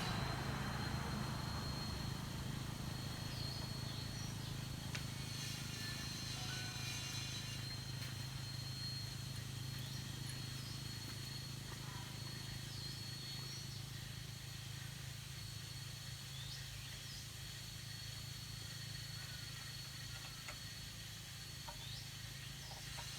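Quiet background with a steady high thin whine and a low hum, a few short chirps, and a couple of faint knocks about five to seven seconds in.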